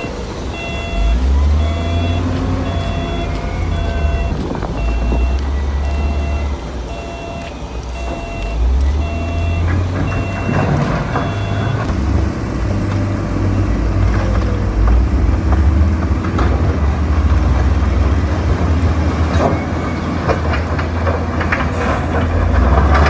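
Heavy earthmoving machine's engine running low and steady while its reversing alarm beeps about once a second; the beeping stops about twelve seconds in and the engine keeps running, with scattered knocks and clatter.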